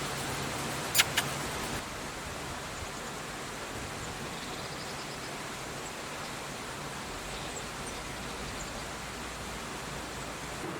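Steady outdoor ambience, an even hiss without speech or music, with one short sharp click about a second in.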